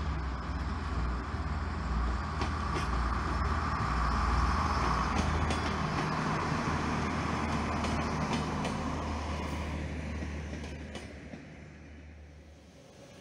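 Regional passenger train pulling away from the station and passing, with a steady low hum and wheel noise. It is loudest a few seconds in and fades away over the last few seconds.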